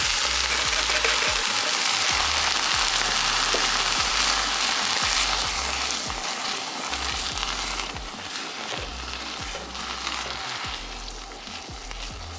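Sautéed onion and garlic with canned fire-roasted diced tomatoes sizzling in a hot pan, with scattered light knocks. The sizzle dies down over the second half.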